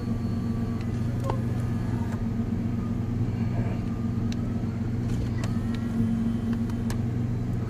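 1996 Mitsubishi 3000GT's V6 idling steadily, heard from inside the cabin, through a straight-piped exhaust with a Flowmaster Super 40 muffler and no catalytic converter.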